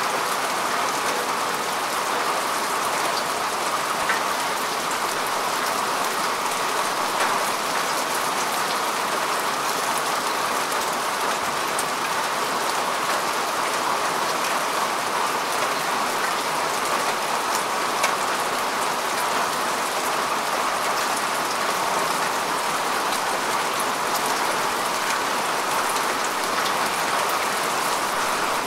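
Steady rain falling on earth and grass, an even hiss with the close patter of single drops; a few drops stand out slightly louder here and there.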